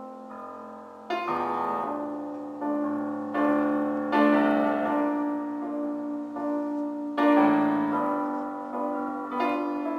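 Piano playing an instrumental break in a slow ballad: chords struck every second or so, each left to ring and fade before the next.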